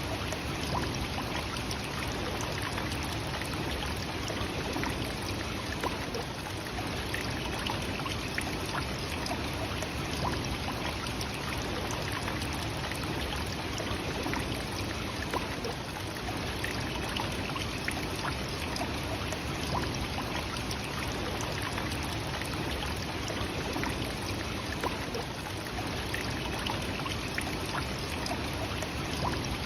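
Nachi Falls, a tall single-drop waterfall, pouring with a steady, even rush of falling water.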